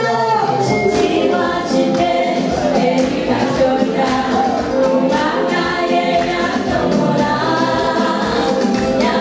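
Choir singing gospel music, several voices together in harmony.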